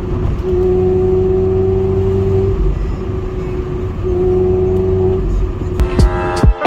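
Mazda MX-5 Miata with an aftermarket exhaust running at a steady engine speed, its drone swelling louder twice without changing pitch. A run of sharp hits starts near the end.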